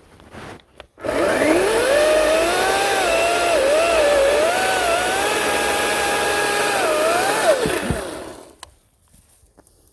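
Ryobi 40-volt cordless electric chainsaw running: the motor's whine rises as it spins up about a second in, dips and recovers in pitch several times while cutting wood, then winds down and stops near the end.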